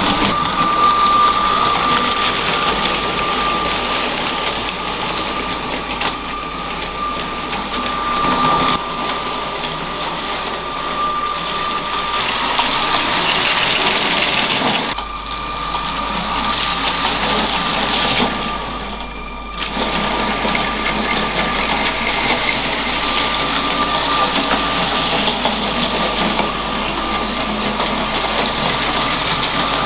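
Motorised LEGO train running on plastic track: a steady thin motor whine over the rattle of the wheels, which fades for a few seconds past the middle and then comes back.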